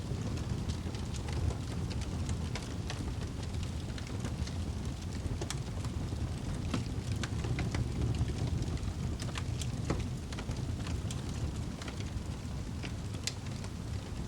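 Wood fire burning in a fireplace: a steady low rumble of flames with irregular sharp crackles and pops, a few each second.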